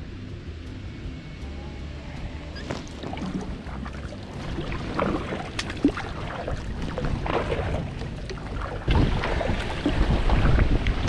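Kayak paddle strokes splashing in the water, irregular and getting louder from about the middle on, over a low rumble of wind on the microphone.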